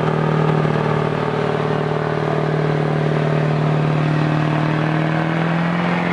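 A vehicle engine running at a steady speed, its pitch creeping up slightly near the end.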